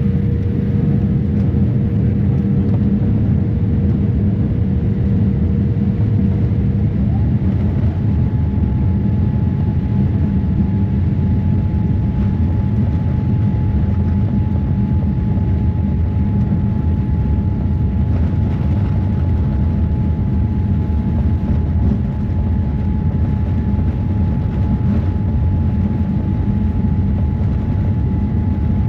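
Boeing 787-8 airliner's engines heard inside the cabin: a loud, steady rumble with a faint hum that shifts to a higher pitch about seven seconds in.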